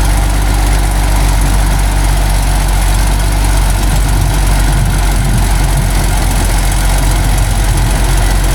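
Heavy logging truck's engine running loud and steady under load as the truck struggles to pull through deep mud, growing a little rougher for a couple of seconds midway.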